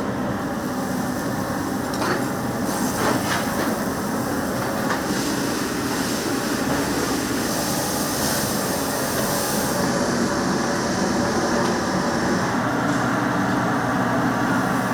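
Steady roar of a powerful gas burner flame under a cauldron-lid pan. A few faint clicks come about two to three seconds in, and a higher hiss rises about three seconds in and fades about ten seconds in.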